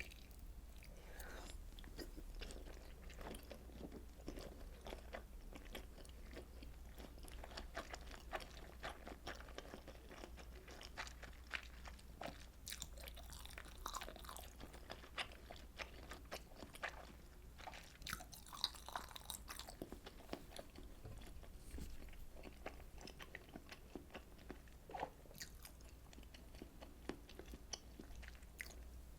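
Mouth sounds of eating fish cake soup: steady chewing and biting with many small wet clicks and smacks.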